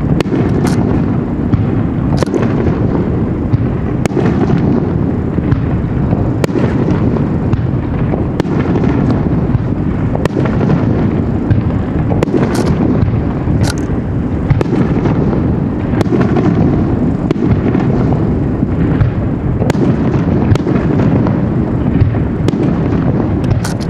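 Aerial fireworks going off continuously: a dense, steady rumble of shell bursts with many sharp crackling pops scattered throughout.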